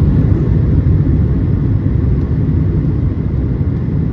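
Airplane in flight on its descent toward landing: a loud, steady low rumble.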